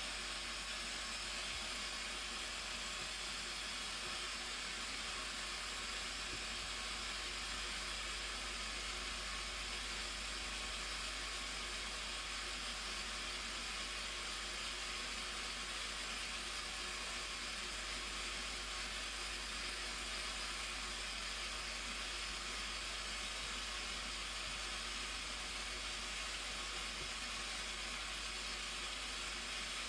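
Steady rushing noise of a waterfall, an even hiss that does not change.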